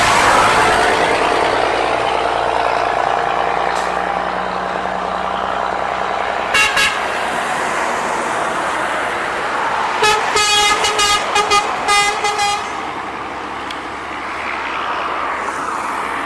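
A truck passes on the road and its horn gives two short toots, then a quick run of about eight short toots, the honk truckers give to roadside spotters.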